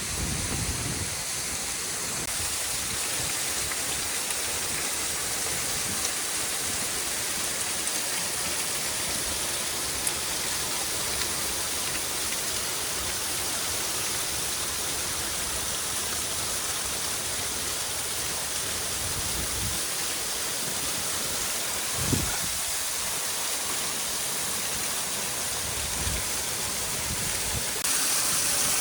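Rushing water of a mountain stream and cascade: a steady, even hiss, with a brief low thump about three quarters of the way through.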